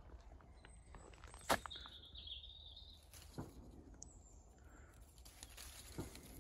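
Quiet rural outdoor ambience. A bird calls briefly about two seconds in, just after one sharp click, and a few fainter knocks follow later.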